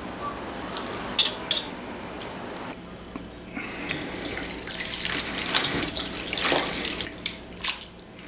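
Tap water running into a kitchen sink, with a few sharp clicks, stronger in the second half.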